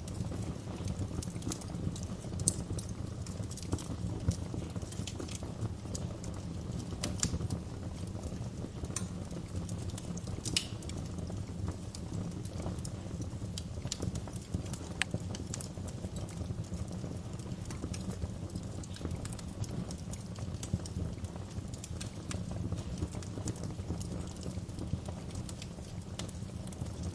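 Wood fire crackling, a steady low rumble of flames with frequent irregular sharp pops and snaps.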